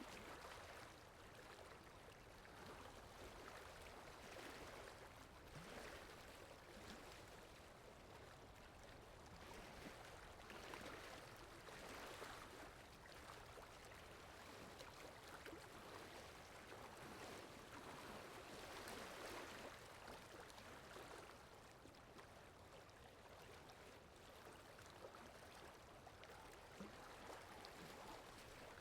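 Near silence: a faint, noisy swishing that swells and fades every few seconds.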